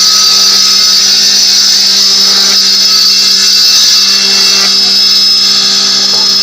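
An electric power tool running steadily at full speed, with a high-pitched whine over a low motor hum.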